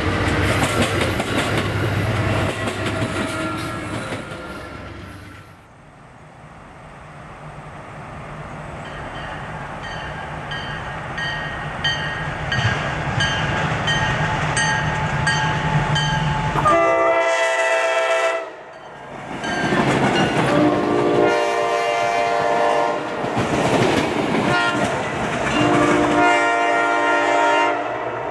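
A passenger train rolls past with steady wheel-and-rail noise that fades away. Then a grade-crossing bell rings at an even pace while a diesel locomotive approaches, and the locomotive's air horn sounds several long blasts for the crossing.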